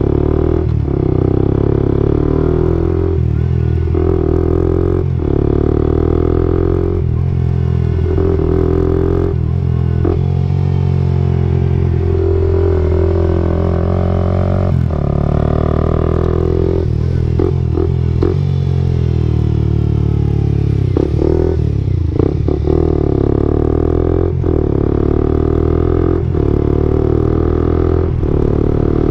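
Suzuki GSX-R125 single-cylinder four-stroke engine running through an aftermarket Akrapovic-style exhaust, with a steady note broken by brief dips every second or two.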